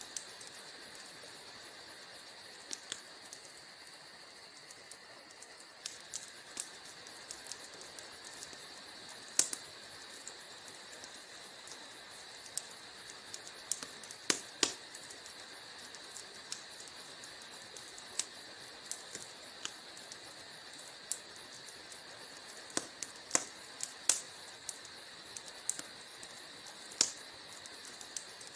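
Wood fire crackling: irregular sharp pops and snaps of burning logs over a steady background. A few louder pops come in the middle and toward the end. A continuous high-pitched chirring runs underneath.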